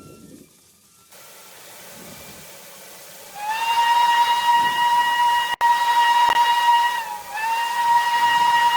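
A faint hiss, then about three and a half seconds in a steam locomotive whistle sounds a long, loud steady note, cuts out briefly near the end and sounds again.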